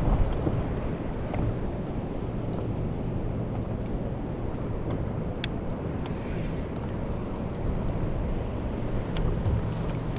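Steady low wind rumble on the microphone on open ocean water, with a couple of faint clicks about halfway through and near the end.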